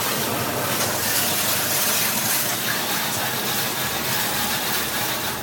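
Automatic car wash spraying water over the car, heard from inside the cabin as a steady hiss with a low machinery hum beneath.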